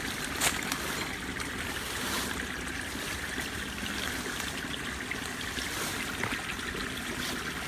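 Shallow water steadily running and trickling at the outlet of a pond's overflow pipe, with a brief knock or splash about half a second in.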